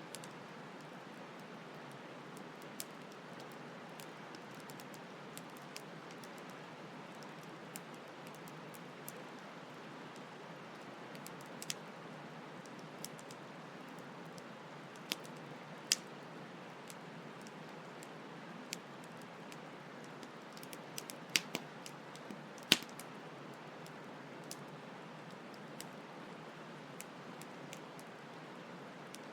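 Campfire crackling, with sharp irregular pops, several louder ones bunched about two-thirds through, over the steady rush of a flowing stream.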